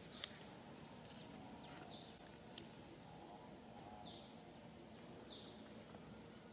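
Faint forest ambience with a bird giving a short, high, falling call four times, about every one to two seconds.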